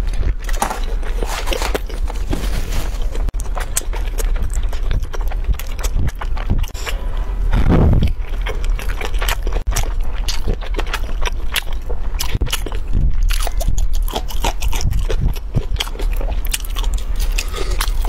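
Close-miked chewing of soft, chewy grilled sweet potato starch sheets, with many short mouth clicks and smacks. One louder, longer mouth sound comes about eight seconds in. A steady low hum runs underneath.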